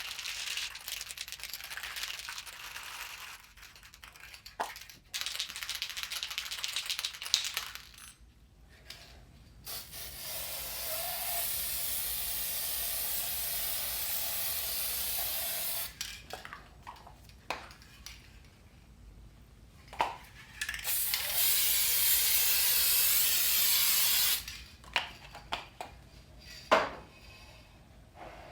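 Aerosol can spraying in two long steady hisses, about six seconds and then about four seconds, the way hydro-dip activator is sprayed onto the floating film. Before the spraying there is a crackly rattling stretch, and a few sharp clicks come near the end.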